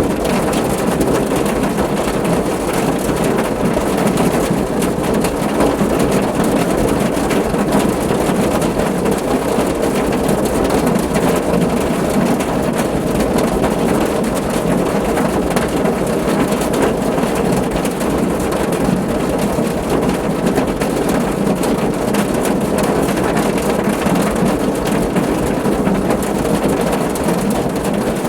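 Steady, heavy rain drumming on a car roof, a dense patter of drops without a break.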